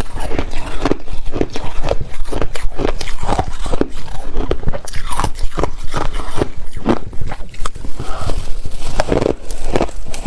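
A person biting and chewing ice close to the microphone: loud, crisp crunches following one another a few times a second.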